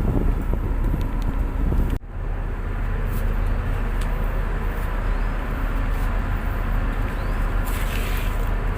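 Tugboat's diesel engine running with a steady low rumble; the sound drops out sharply for an instant about two seconds in.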